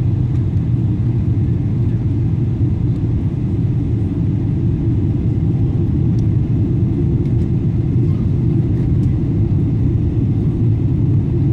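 Steady low rumble of a Boeing 777-200's engines and airflow, heard from inside the passenger cabin.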